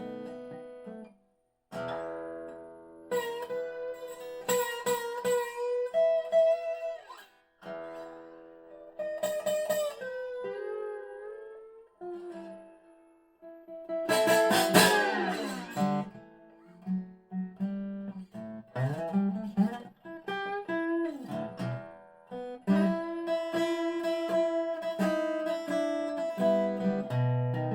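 A 1985 Dobro spider-cone resonator guitar with a natural maple body, played with a bottleneck slide in regular tuning. It plays picked notes and chords, with notes sliding in pitch about ten seconds in and a loud strummed chord about halfway through.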